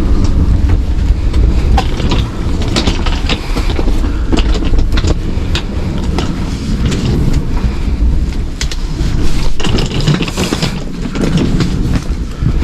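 Passenger railway carriage: a steady low rumble with irregular clattering knocks and clicks throughout.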